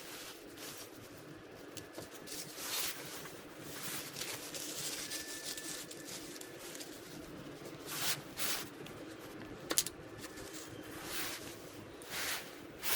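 Scattered scrapes, rustles and clicks of hand work on a motorcycle engine: tools and metal parts being handled while the clutch cover is taken off and refitted.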